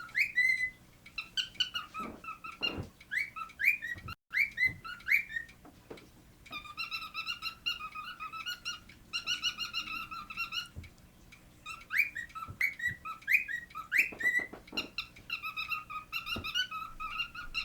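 Cockatiel singing: runs of quick, squeaky chirps and short rising whistles, repeated in phrases with brief pauses between them.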